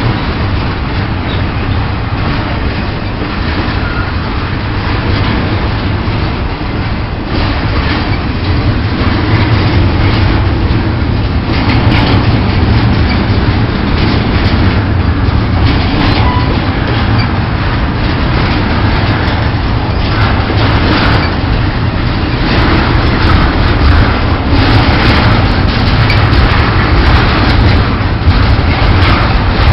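Pan Am Railways train rolling by with a steady heavy rumble, its wheels clicking over the rail joints, the clicks coming thicker in the second half.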